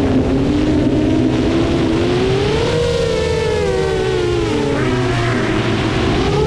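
Seven-inch FPV quadcopter's motors whining in flight, the pitch rising and falling with the throttle: climbing about two to three seconds in and dropping sharply near five seconds.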